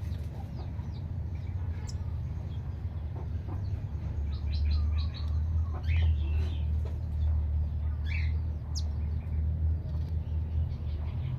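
Small birds chirping in short, scattered calls, with a clustered run about halfway through and a single high down-slurred whistle near the end, over a steady low rumble.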